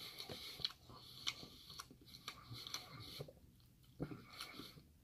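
Faint chewing of a mouthful of tofu curry: soft wet mouth sounds with small irregular clicks, dropping away briefly near the end.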